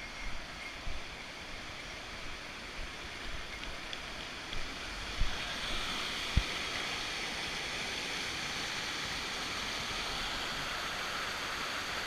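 Rushing water of a creek, a steady hiss that gets a little louder about halfway through, with a few low bumps.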